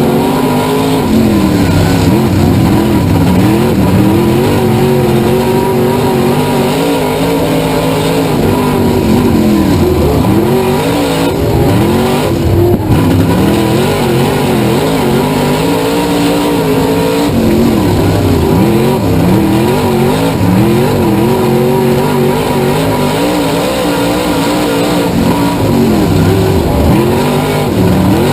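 Street stock race car engine heard onboard, its revs falling and climbing again several times over as the driver lifts off and gets back on the throttle.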